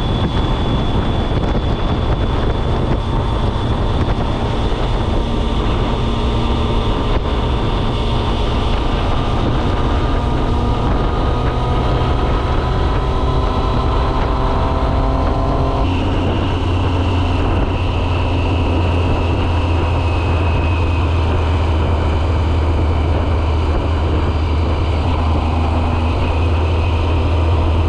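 Triumph Speed Triple's 1050 cc inline-three engine running under way. Its pitch climbs slowly for about ten seconds, then changes abruptly about halfway through to a deeper, steadier sound that holds to the end.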